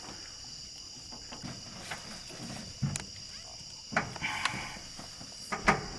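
Crickets chirping steadily, with a few light clicks and knocks from parts being handled.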